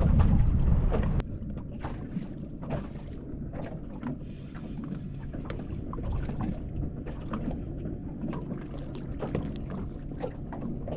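Wind rumbling on the microphone that cuts off suddenly about a second in, followed by water lapping against a small fishing boat with scattered light knocks and ticks.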